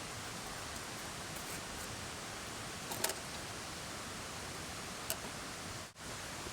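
Steady rush of a mountain stream, with a few light clicks about three seconds in and another just after five seconds. The sound drops out briefly just before six seconds.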